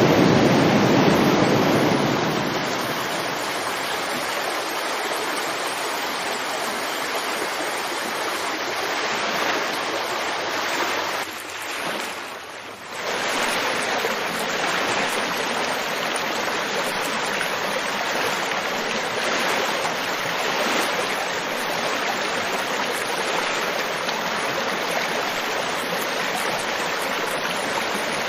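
River water flowing, a steady rushing sound. About twelve seconds in, it briefly drops in level and then returns to the same steady flow.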